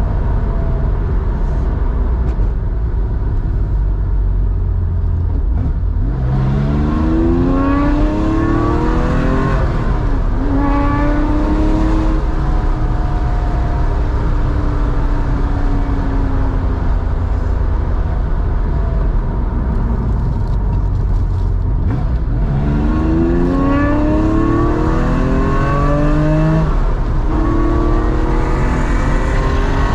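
Air-cooled 3.4 litre flat-six of a 1987 Porsche 911, breathing through a Scart 2-in-1-out muffler, pulling hard while driving: the revs climb about six seconds in, drop at an upshift and hold steady for a stretch, then climb again through several gears near the end.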